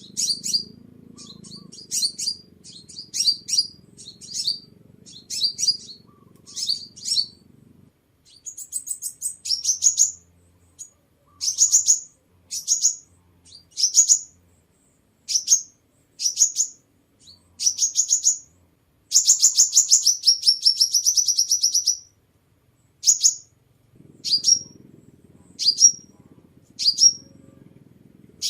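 Sunbird calling: a run of short, high chirps, about one to two a second, with a longer rapid trill around two-thirds of the way in. A faint low rumble runs underneath at the start and near the end.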